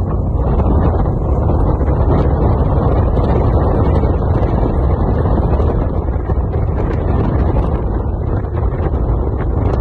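Wind buffeting the microphone, a steady, loud low rumble with no break.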